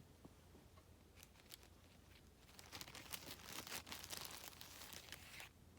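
Faint crinkling and rustling of plastic toy packaging as small playset pieces are handled, after a few light clicks. The crinkling runs for about three seconds in the second half and stops shortly before the end.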